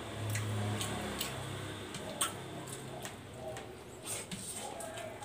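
Close-up eating sounds: a person chewing a mouthful of rice, with scattered wet mouth clicks and smacks. A low steady hum fades out about a second and a half in.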